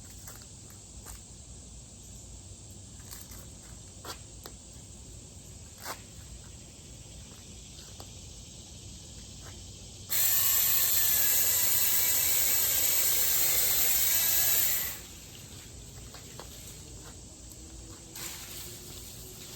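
Mini cordless electric chainsaw running at full speed with a steady high whine for about five seconds, starting abruptly about halfway in and stopping just as abruptly. Before it there are only scattered light clicks.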